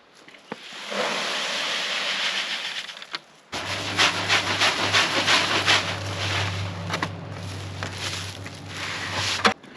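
Mixed whole-grain chicken feed being scooped and poured into a sack, a rushing, scraping grain sound. About three and a half seconds in a steady low hum starts under it, with many quick rattling clicks, until just before the end.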